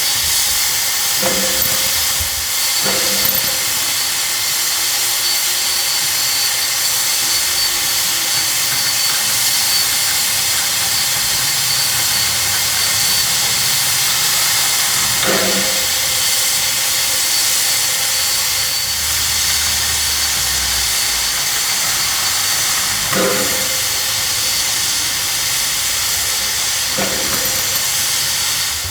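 Steam locomotive hissing steadily as it lets off steam, with a few short sharp clanks: two near the start, one about halfway and two near the end.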